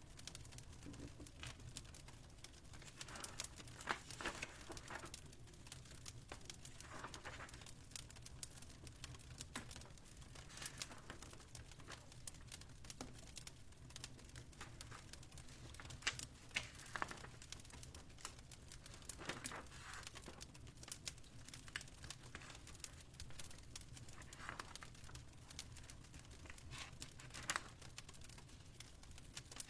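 Wood fire crackling in a fireplace: faint, irregular pops and crackles, a few louder snaps, over a steady low hum.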